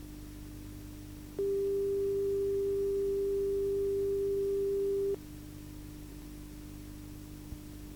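A steady, pure test tone from a VHS tape, one mid-pitched note held for nearly four seconds before it cuts off, over a constant low hum and tape hiss. A faint click comes near the end.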